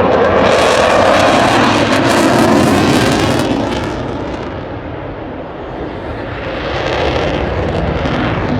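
Eurofighter Typhoon fighter jet making a fast pass, the noise of its twin EJ200 turbofan engines loudest in the first few seconds, with a hiss reaching the highest pitches. It eases off midway and swells again near the end.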